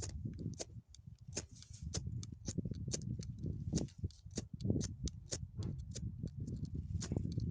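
Small wood campfire crackling, with many sharp irregular pops over a low steady rumble.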